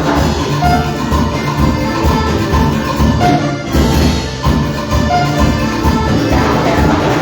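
Worship band playing upbeat music with a steady low beat and no singing.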